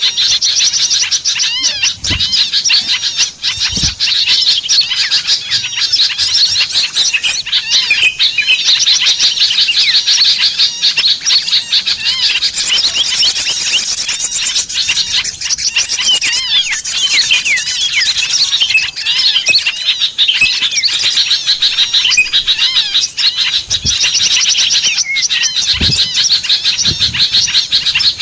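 A dense flock of small songbirds chirping and twittering continuously, many rapid high calls overlapping, as on a bird-luring recording for small birds. A few soft low thumps come through about two and four seconds in and again near the end.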